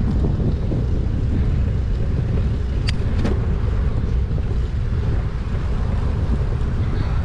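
Wind buffeting the action-camera microphone of a moving bicycle: a steady low rumble, with two short sharp clicks about three seconds in.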